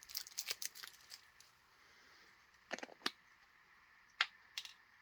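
Tape being worked off a small plastic shipping container: crackling and rustling for about a second, then a few sharp clicks and snaps.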